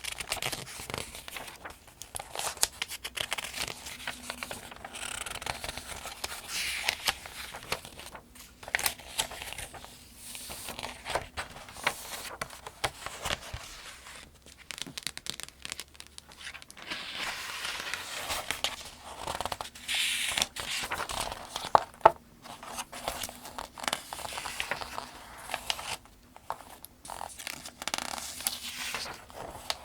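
Pages of the 2025 Farmers' Almanac being turned one after another, a steady rhythm of paper rustling and swishing with sharp crisp flicks, two of them loud about two thirds of the way through.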